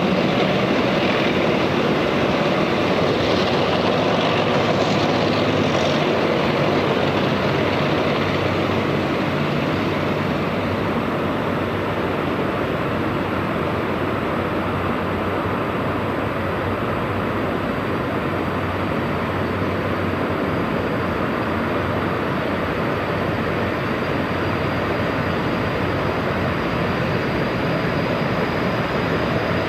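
Steady mechanical running noise, like a vehicle or motor, with a faint high whine coming in about halfway through.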